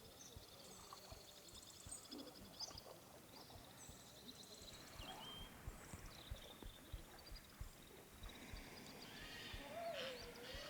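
Faint outdoor ambience: small birds chirping and trilling, with soft low knocks on the microphone. Near the end comes a louder, wavering call.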